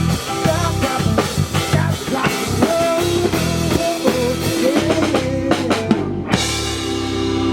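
Beach-rock band music with a drum kit and guitar playing a rhythmic groove. About six seconds in the drums stop and the music changes to held, sustained chords.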